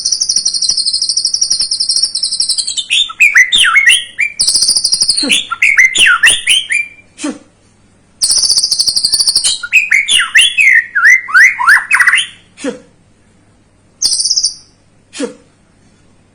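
White-rumped shama singing: a long, high, buzzy trill that breaks into quick notes sweeping down in pitch, repeated three times, then two short phrases near the end.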